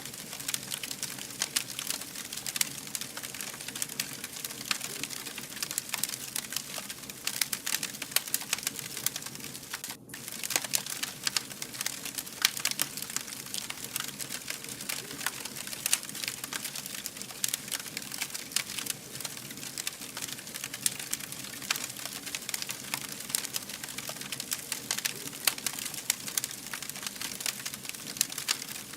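Wood fire burning, with dense, irregular crackling and popping over a steady hiss; the sound drops out briefly about ten seconds in.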